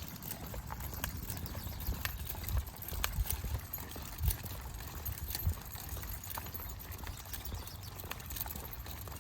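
Footsteps on a trail: irregular steps with scattered light clicks and a few stronger low thumps.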